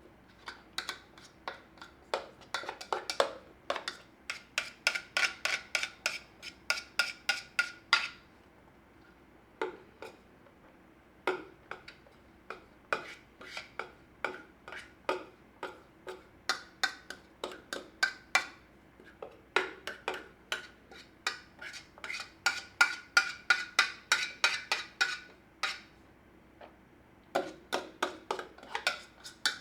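Quick runs of clinks and knocks from a kitchen utensil striking dishware or cookware, several a second, each with a short ring, broken by brief pauses.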